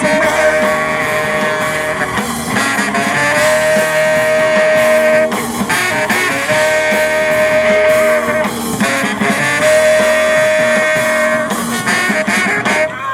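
Live blues-rock band playing an instrumental passage without vocals, a lead instrument holding long notes that repeat about every two to three seconds over the band.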